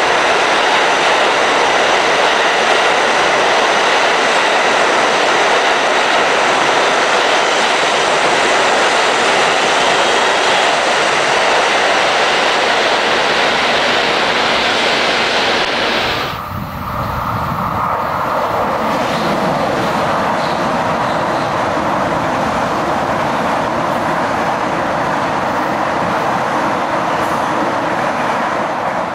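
A train passing close at speed through a station: a loud, steady roar of wheels on rails. About 16 seconds in it cuts abruptly to a lower, duller rumble of a Metro-North commuter train running through a covered station.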